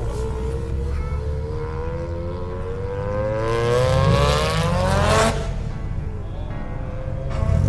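Car engine revving, its pitch climbing steadily for about five seconds before it cuts off abruptly, with background music underneath.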